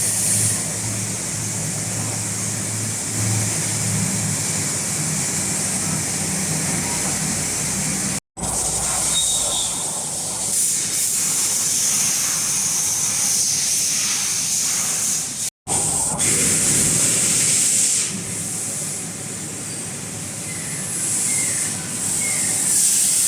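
CNC milling machine cutting an MC nylon part, a steady, loud hiss of spray over the machine's low hum. The sound drops out abruptly for an instant twice.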